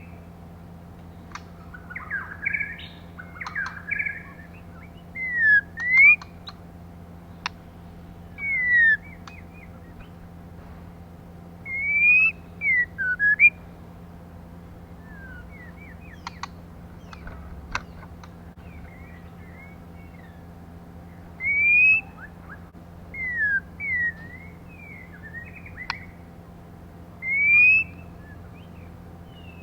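Female white-rumped shama calling: short whistled notes sliding up or down, given in small clusters every few seconds, over a steady low hum.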